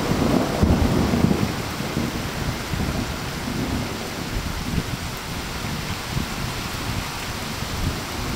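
Very heavy thunderstorm downpour: steady, dense rain hiss, with a low rumble of thunder in the first second or so that dies away into the rain.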